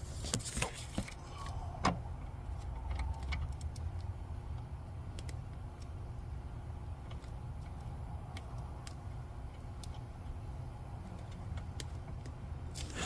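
Light metallic clicks and taps of a wrench and hardware as a nut is worked onto a bolt at the brake pedal, scattered and uneven, with a few louder clinks in the first two seconds over a low steady rumble.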